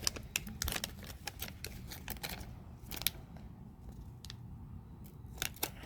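Baseball cards being handled: a run of light clicks and taps, quick at first and sparser toward the end.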